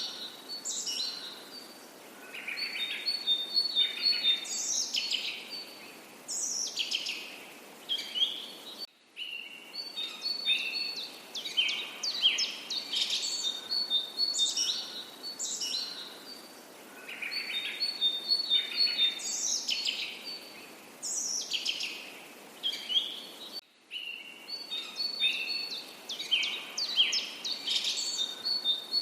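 Several songbirds singing and calling together: quick high chirps, short notes sweeping downward and rapid trilled notes, over a faint steady hiss. The sound drops out completely for an instant about 9 seconds in and again about 24 seconds in.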